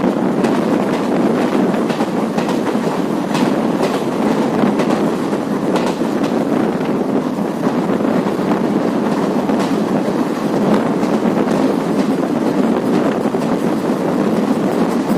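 Express passenger train running along the track, heard from on board: a steady rumble of the coaches with scattered clicks of the wheels over rail joints.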